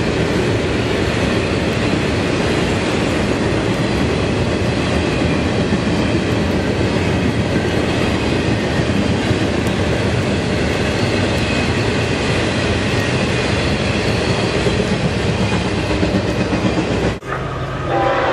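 CSX double-stack intermodal container train rolling past, a steady noise of steel wheels running on the rails. Near the end the sound breaks off briefly and a train horn begins to sound.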